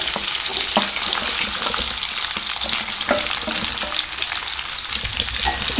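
Chopped Indian gooseberries (amla) dropped into hot sesame oil in a steel kadai, setting off a sudden, loud, steady sizzle. A couple of metal clinks against the pan sound over it.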